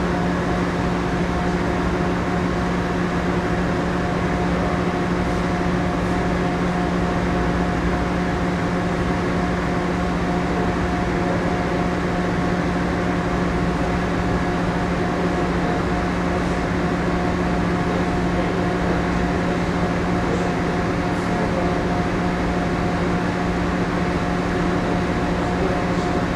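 Steady machinery hum inside the moored second-generation Ogasawara Maru passenger-cargo ship: an even drone with a few constant low tones and no change throughout.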